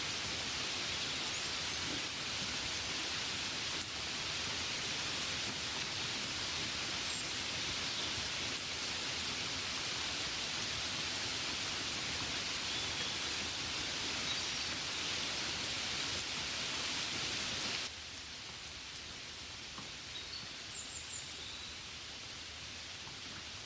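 Steady hiss of gentle rain falling on a window pane, dropping suddenly to a softer level about 18 seconds in.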